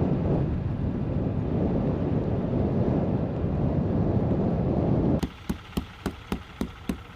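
Loud, steady low rumble of wind and road noise around a vehicle. It cuts off suddenly about five seconds in, and a fast, regular clicking follows, about three clicks a second.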